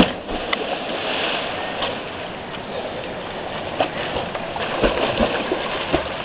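Steady rush of a waterfall's falling water, with a few short knocks and clicks.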